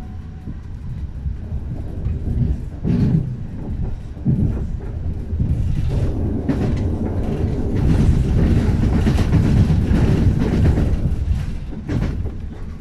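Moving electric passenger train heard from inside the carriage: a steady low rumble of wheels on rails that swells through the middle and eases near the end, with sharp clacks as the wheels run over the track.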